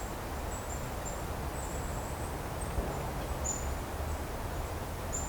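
A string of faint, very high, thin call notes from a small songbird, repeated many times and unevenly spaced, over a steady low outdoor rumble.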